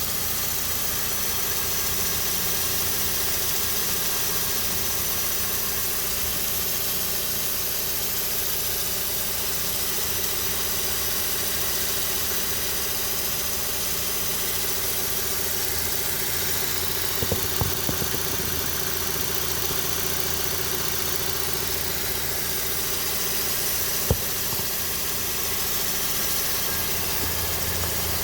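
Car engine idling steadily with the running noise of a failing serpentine-belt pulley. A few sharp clicks come about 17 to 18 seconds in, and one more about 24 seconds in.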